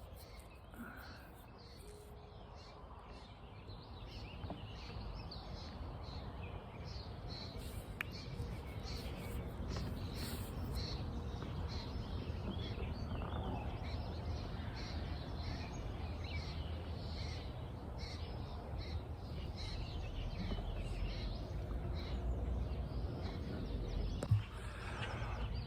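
Faint outdoor ambience with birds calling in short, scattered calls over a low steady background, slowly growing a little louder over the first few seconds.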